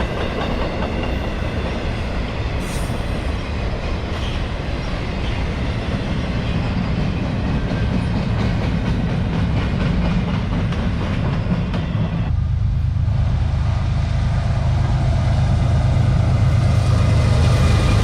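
CSX intermodal freight train rolling past, its railcar wheels clacking over the rails. About twelve seconds in the sound changes abruptly to a steadier low rumble.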